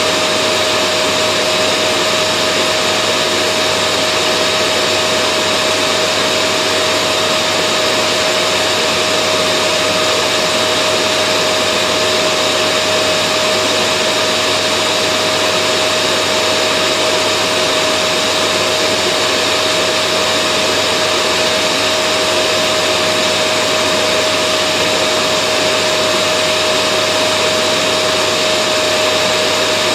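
Vacuum cleaner motor running continuously: an even rushing of air with a steady whine held on one pitch, unchanging throughout.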